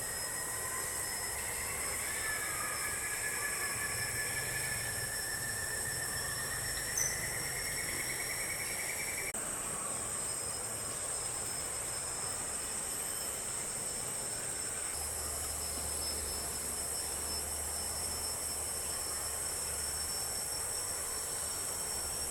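Steady high-pitched drone of tropical insects, cicadas or crickets, with a lower wavering whine for the first nine seconds or so. The sound changes abruptly about nine and fifteen seconds in, and there is a single brief click about seven seconds in.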